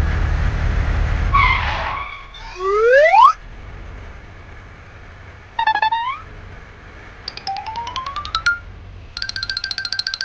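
Cartoon sound effects: a low vehicle rumble for about two seconds, then two rising whistle glides, a short wobbling tone, a rising ratcheting chirp, and a rapid repeated electronic beeping near the end.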